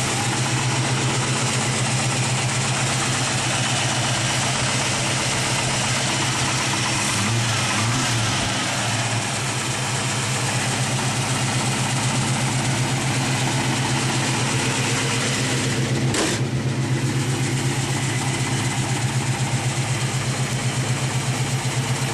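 1966 Mustang's 289 V8 idling through a Flowmaster American Thunder exhaust, a steady pulsing burble with a short lift in pitch about seven seconds in. One sharp click sounds about sixteen seconds in.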